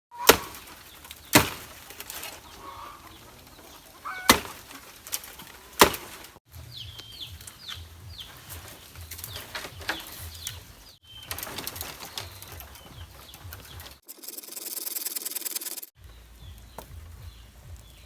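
Chickens: several sharp knocks or wing flaps, then repeated high chirping calls, with a short burst of hiss about fourteen seconds in.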